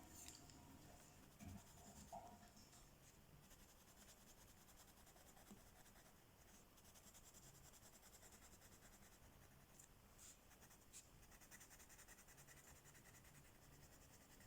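Faint scratching of a coloring tool on paper, laid down in quick, even back-and-forth strokes as an area is filled in.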